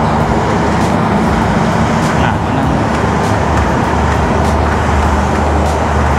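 Steady loud rumble with a constant low hum from the train standing at the station platform, with faint footsteps on the stairs about once a second.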